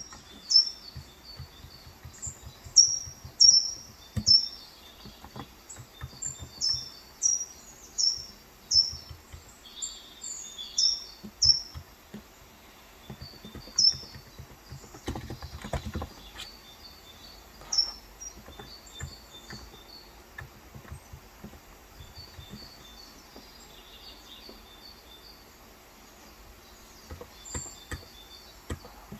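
A bird chirping over and over in short, high, falling notes, thick for the first dozen seconds and thinning out after. Beneath it, soft keystrokes from a Cox Endeavor electro-capacitive (Topre-style) tenkeyless keyboard with 35g switches come in runs, densest around the middle.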